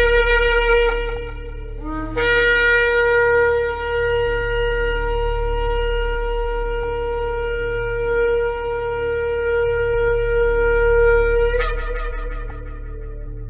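Shofar (ram's horn) blown: a blast that stops about two seconds in, then one long steady blast of about nine seconds that flares brighter at its end before dying away, over a steady low hum.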